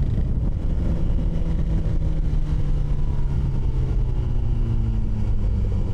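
Motorcycle engine running under a steady low rumble, its pitch falling slowly as the bike eases off.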